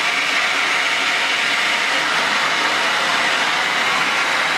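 MAPP gas torch flame burning with a steady, loud hiss.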